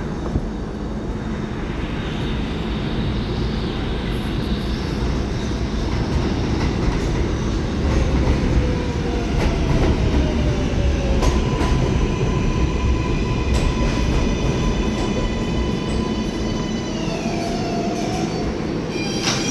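R188 subway train on the 7 line pulling into the station: a steady rumble of wheels on rail, with the electric motors' whine falling in pitch in steps over the last ten seconds as it brakes to a stop.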